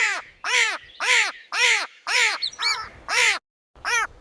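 A bird cawing: a run of about eight short calls, roughly two a second, each rising then falling in pitch.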